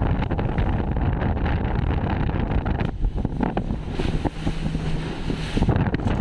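Strong wind blowing over the microphone: a constant heavy low rumble with crackling buffets.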